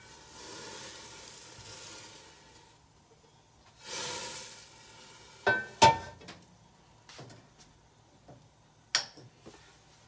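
Oil sizzling in a skillet as it heats up, in two stretches of hiss. About halfway through there are two sharp knocks of cookware, and a single click later.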